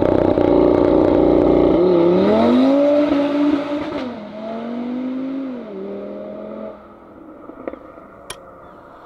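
Audi RS3's turbocharged five-cylinder engine accelerating away, its note gliding up and then stepping down in pitch, fading to a low level near the end.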